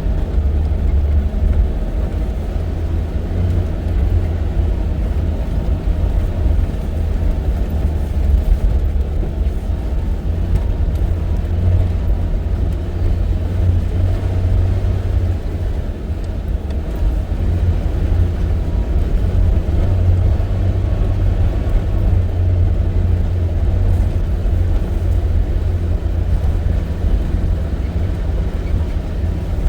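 Steady low rumble of a safari vehicle driving on a track: engine and road noise with no breaks.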